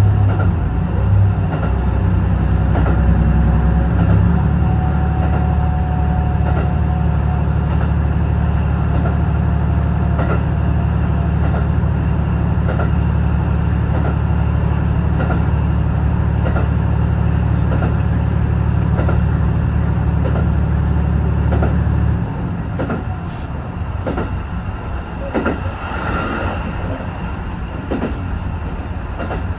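Diesel-hybrid railcar (JR East HB-E210 series) under way: a steady low engine drone with regular clicks of the wheels over rail joints. About three quarters of the way through, the engine drone cuts off suddenly, leaving only the wheel-and-rail running noise.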